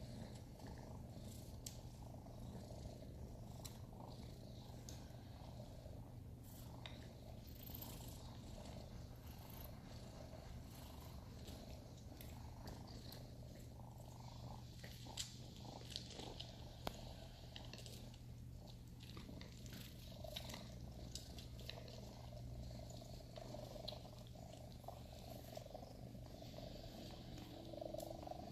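Sphynx kittens purring steadily, with a few faint clicks and rustles.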